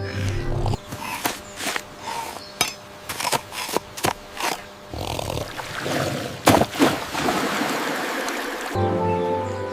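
A series of sharp knocks and clatters, then water rushing and splashing for a few seconds, as if a blocked stream were starting to flow.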